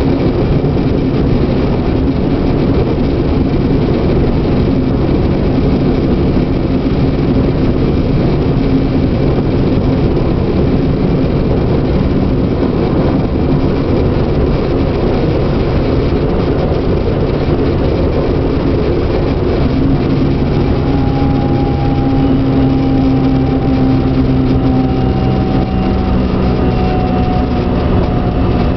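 Regional train heard from inside the passenger coach while running: a steady rumble of wheels on the rails with a low motor hum. About two-thirds of the way through, a whine joins in and falls slowly in pitch as the train slows down.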